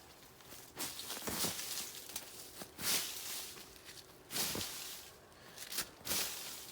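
Irregular rustling and crunching, in separate scuffs roughly a second apart.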